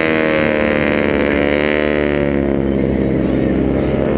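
Aircraft engine droning loudly and steadily, its pitch sliding slowly as the plane moves past.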